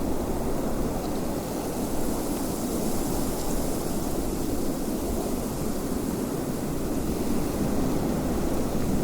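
Wind blowing steadily: an even, low rushing noise with a fainter high hiss.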